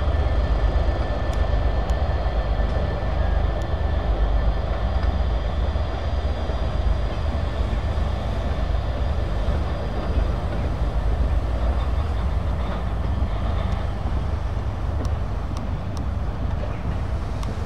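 A train passing over a bridge. A Class 66 diesel locomotive's two-stroke V12 engine drones and fades away over the first half, under a steady low rumble of the coaches rolling over the track.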